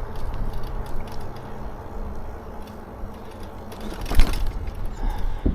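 Lectric XP4 folding e-bike rolling along a bumpy path: tyre rumble with small rattles and jangles from the bike, a steady low hum for the first couple of seconds, and a hard knock about four seconds in.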